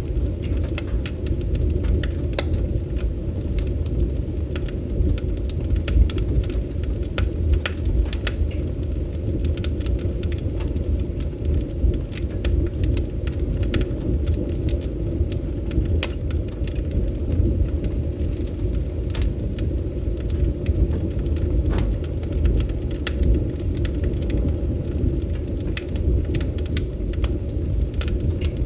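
Wood fire crackling in a fireplace, with irregular sharp pops and snaps over a steady low rumble of burning.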